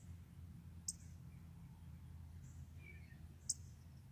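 A songbird giving short, sharp high chip notes, two clear ones about two and a half seconds apart with a fainter note between, over a steady low hum.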